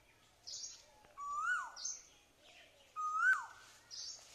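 Bird calls: a whistled note that rises and then drops sharply, heard twice, alternating with short bursts of high, quick chirps about three times.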